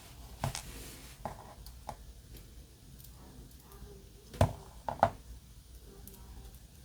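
Small parts of a diecast model car kit clicking and knocking as they are handled and fitted back together: a few light clicks, then two sharper knocks about half a second apart past the middle.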